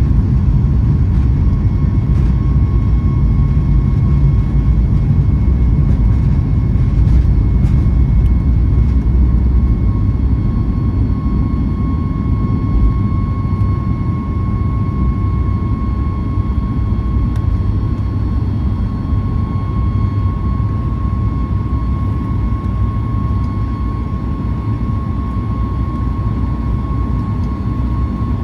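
Cabin noise of a Boeing 737 MAX 8 during takeoff, heard from a forward seat: a heavy, steady low rumble from its CFM LEAP-1B engines at takeoff power, easing slightly about ten seconds in, with a steady high engine whine that grows clearer from then on.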